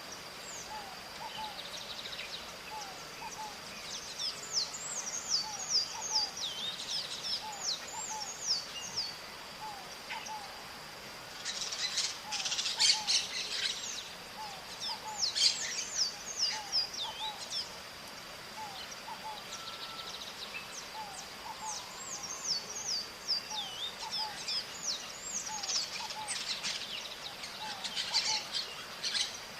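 Maritacas (small Brazilian parrots) calling: strings of quick, harsh falling notes in several bouts, with a loud burst of overlapping screeches about halfway in and another near the end. A steady high whine and a faint repeated low chirp run underneath.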